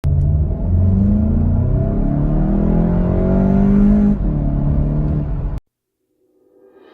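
Golf GTI's 2.0-litre turbocharged four-cylinder accelerating hard, its pitch climbing steadily, with a brief break about four seconds in as a gear changes. The engine sound cuts off abruptly about a second before the end.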